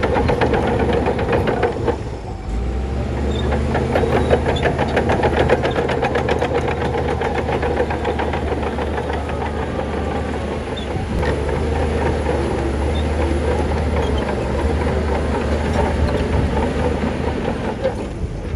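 Crawler bulldozer's diesel engine running under load, with a steady rattle and clank from its tracks. The engine note dips briefly about two seconds in, then settles deeper.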